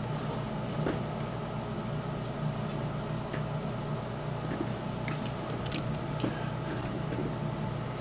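Steady low background hum with a few faint, light clicks and taps of small parts being handled on a workbench.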